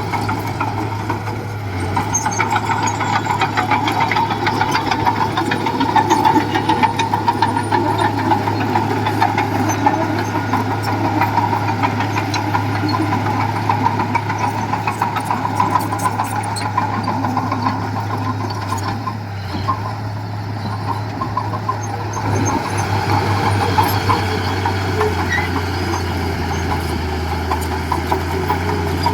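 Diesel engine of heavy earthmoving machinery running steadily, with a fast fine clatter over a low hum. It eases off briefly about twenty seconds in.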